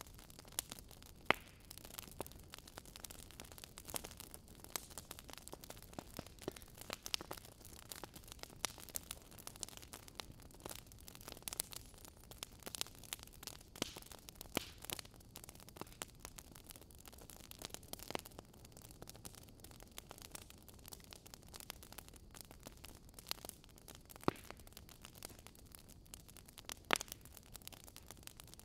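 Fireplace crackling: irregular sharp pops and snaps of burning wood over a faint steady hiss.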